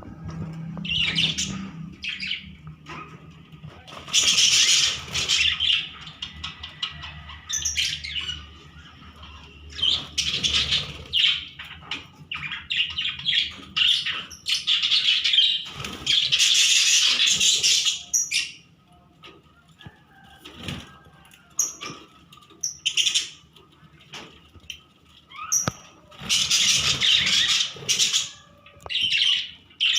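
A colony of budgerigars chattering and chirping in loud bursts, with wings flapping. The busiest spells come about four seconds in, in the middle and near the end.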